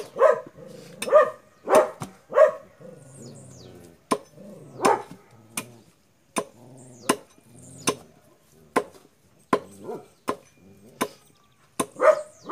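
A dog barking several times in the first couple of seconds, then a regular series of sharp knocks, about one every three-quarters of a second.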